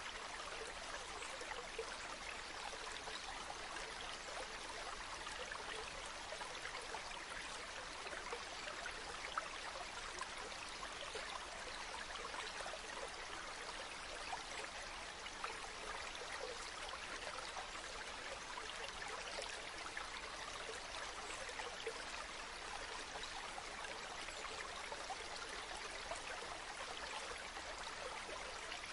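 Water of a stream flowing steadily: an even, unbroken rush with faint small splashes.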